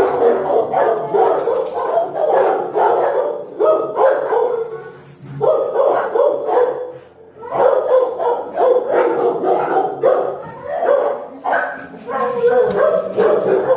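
Dogs barking rapidly and repeatedly, bark after bark, with short lulls about five and seven seconds in.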